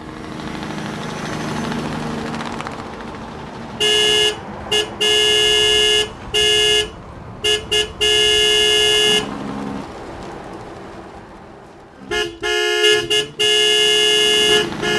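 A vehicle horn honking in a series of short and long blasts, starting about four seconds in, pausing for a few seconds, then resuming near the end. Before the horn there is a steady noise.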